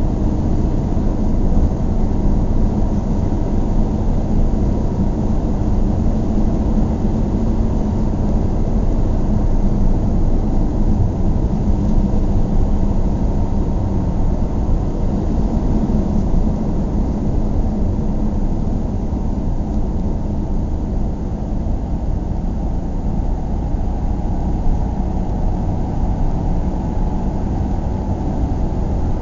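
Steady low rumble of a moving vehicle, with no breaks or sudden events.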